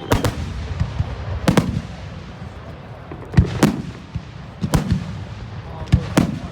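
Fireworks going off: about seven sharp bangs at irregular intervals, two of them in quick pairs, each with a short echoing tail.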